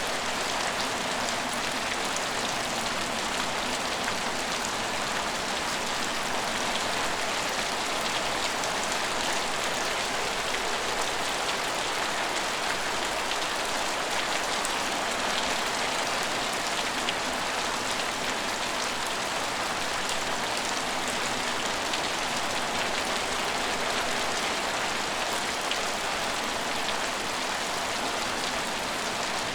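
Steady rain falling on hard surfaces, an even hiss with faint scattered drop ticks.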